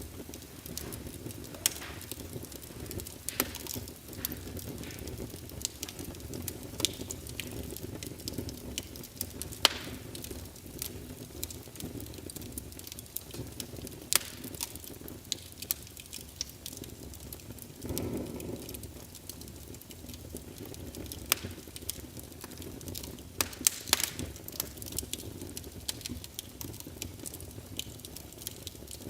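Fireplace crackling: irregular sharp pops and snaps over a steady low rumble of burning wood, with a brief swell of the rumble a little past halfway.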